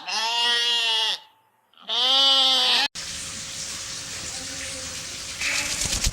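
A goat bleating twice: two long, wavering calls about a second each. After an abrupt cut, a steady hissing noise follows.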